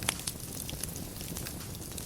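Fire burning in a fireplace, crackling with scattered small pops over a steady low rumble of flame. One sharper pop comes right at the start.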